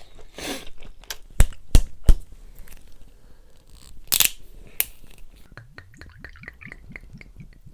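Close-miked eating: a person chewing and crunching food, with many small mouth clicks. Three sharp knocks come about a second and a half in, a louder noisy burst follows near the middle, and quick wet mouth sounds come near the end.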